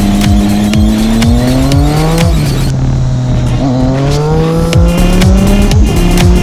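Car engine accelerating through the gears: its pitch rises, drops sharply about two seconds in at a gear change, then climbs again, over music with a steady beat.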